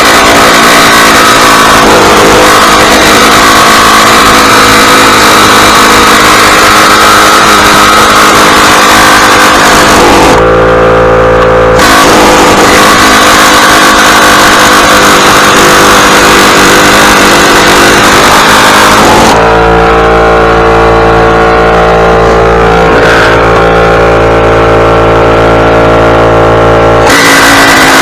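Small gasoline engine running loud and close, holding a steady speed, its tone shifting abruptly a few times.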